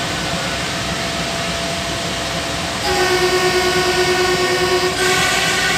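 Steady running noise of a rail vehicle. About three seconds in, a multi-tone train horn sounds and is held, changing to a different chord of tones near the end.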